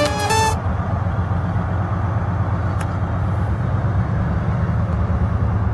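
Music cuts off about half a second in, giving way to a train's steady low running rumble.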